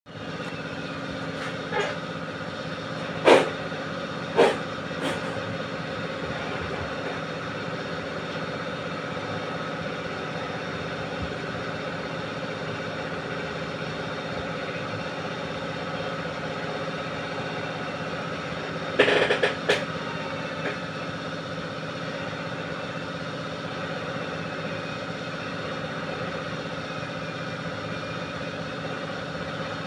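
A steady machine-like hum made of several steady tones, broken by a few sharp knocks in the first few seconds and a short run of clicks about two-thirds of the way through.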